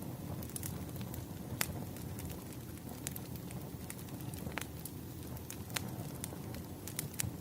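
Wood bonfire burning low as it goes out: a steady low rumble of the embers with scattered sharp crackles and pops, the loudest about a second and a half in.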